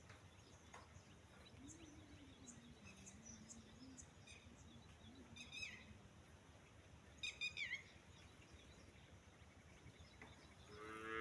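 Faint outdoor quiet with small birds chirping here and there, and two louder bird calls with quick downward-sweeping notes about halfway through. Near the end a louder, lower call falling in pitch begins.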